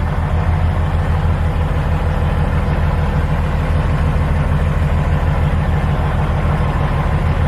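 Heavy diesel truck engine, a twin-turbo Caterpillar 15-litre, idling with a steady deep rumble.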